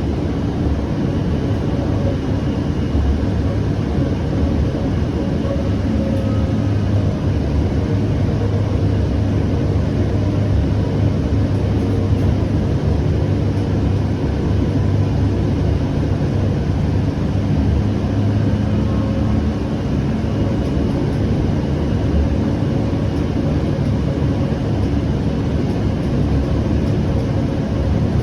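Inside a Siemens S700 light rail car running between stations: a steady low rumble of wheels on the rails and running gear, with a faint hum over it.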